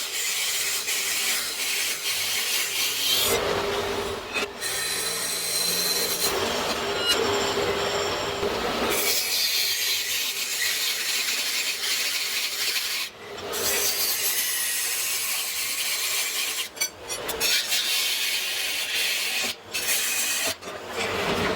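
A tool rasping against wood: a steady, hissing scrape that stops and starts several times with short breaks.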